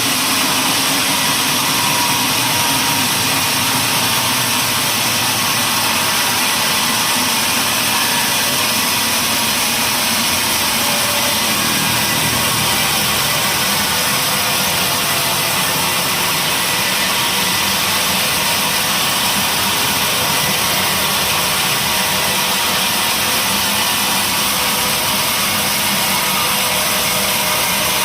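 Sawmill machinery running steadily, a loud engine-like drone with a thin high whine over it; the low part of the drone grows stronger about eleven seconds in.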